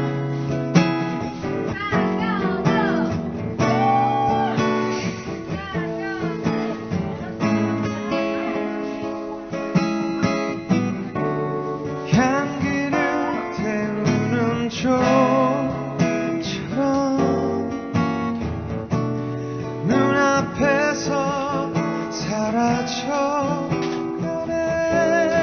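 Acoustic guitar strumming chords in a live song cover, with a wavering melody line over the chords.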